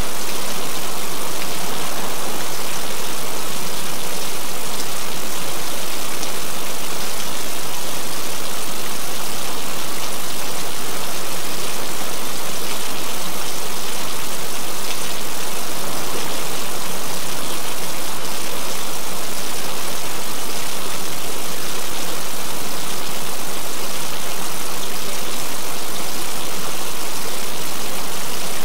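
Steady recorded rain: an even, unbroken hiss of rainfall.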